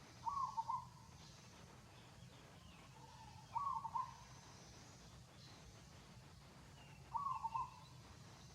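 An animal call repeated three times, about every three and a half seconds: each is a short, mid-pitched call of about half a second.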